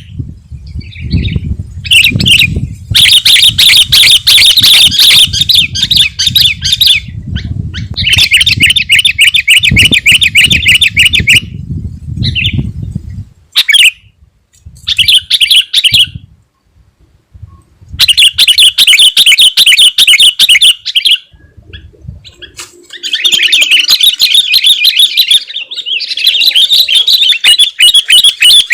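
Sooty-headed bulbul singing in full voice: loud phrases of fast, chattering notes, each a few seconds long, broken by short pauses. A low rumble runs under the first half.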